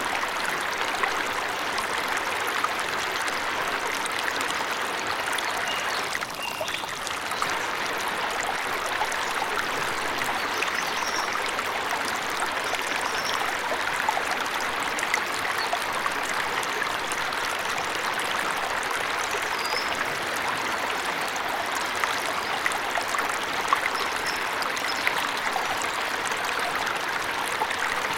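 Waterfall rushing steadily, with a few faint, short, high bird chirps scattered over it.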